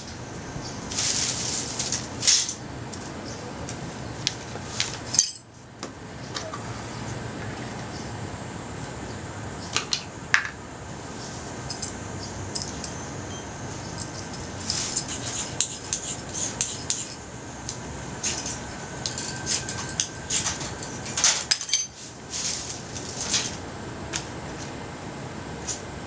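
Light metallic clinks and scrapes, irregular and scattered, over a steady background hiss that drops out abruptly twice.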